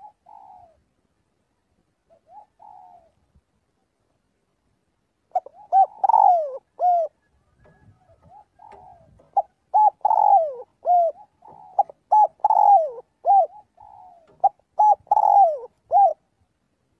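Spotted dove cooing: a few faint short coos at first, then from about five seconds in, loud repeated cooing phrases of several notes each, with short pauses between phrases.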